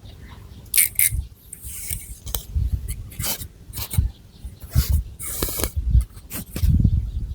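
Long fingernails scratching and rubbing through thick hair and over the scalp, in irregular short scratchy strokes with soft low thumps in between.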